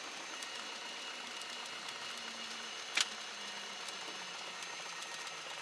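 Steady hiss of the cockpit headset/intercom audio with the Cessna 172 Skyhawk's engine faintly underneath at taxi power, its pitch sinking slightly; a single sharp click about three seconds in.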